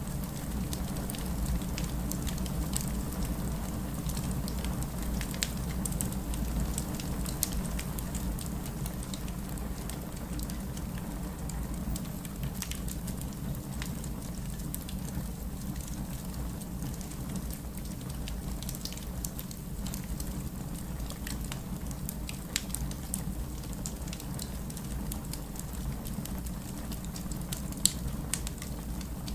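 Fire in a fireplace crackling steadily: irregular sharp pops and snaps over a constant low rumble, with one louder pop near the end.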